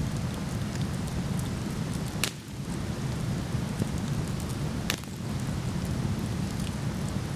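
Waterfall rushing steadily, with a wood fire crackling over it: two sharp pops about two and five seconds in and faint small ticks between.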